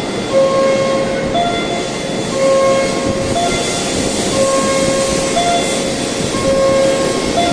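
Tohoku Shinkansen train pulling out of the platform on departure, its running noise building up. Over it, a short electronic chime of a few fixed notes repeats every couple of seconds.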